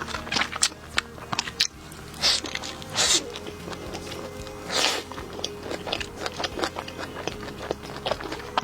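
Close-miked eating sounds of a burger being bitten and chewed, many small wet clicks with louder crisp bursts about two, three and five seconds in, over background music.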